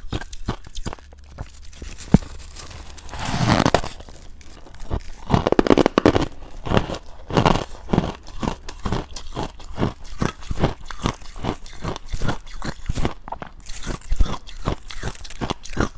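Close-up chewing of dry, powdery freezer-frost ice: a fast, uneven run of crisp crunches, with a few longer, louder bites around the middle.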